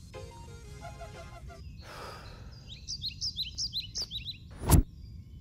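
Bird chirping in a quick run of short, sharp notes, with a short whoosh just before it. A single sharp thump near the end is the loudest sound.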